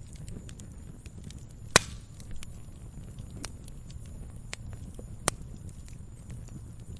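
Campfire crackling: a low, steady rush of flames with scattered sharp pops, and two loud snaps, one nearly two seconds in and one about five seconds in.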